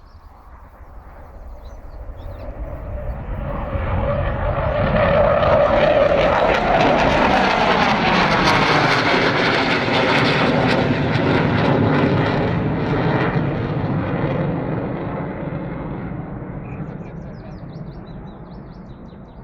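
Panavia Tornado GR4's twin RB199 jet engines as the jet passes by. The roar and whistle build over several seconds, hold loud for several more, then fade, with the pitch gliding downward as it goes past.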